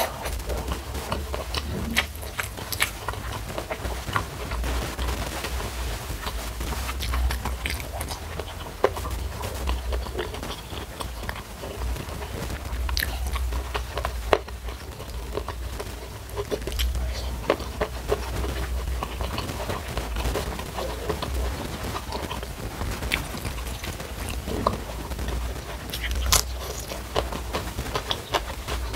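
Close-up eating sounds of a person chewing and crunching rice, sambal, petai beans and cucumber: wet chewing with scattered sharp mouth clicks and smacks, the loudest a few isolated clicks. A low steady hum lies underneath.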